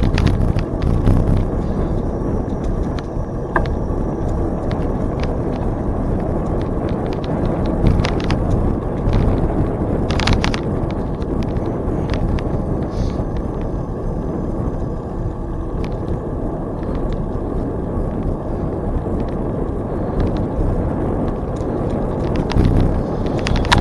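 Steady rushing noise of a bicycle being ridden along a trail, with wind on the camera's microphone and tyre noise, broken by scattered clicks and rattles from the bike.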